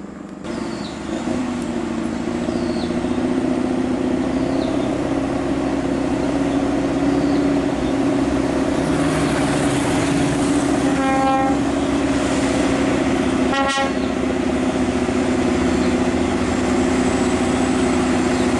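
Heavy truck's diesel engine pulling away, a steady drone that grows louder over the first couple of seconds. A little after the middle, a horn gives two short toots about two and a half seconds apart.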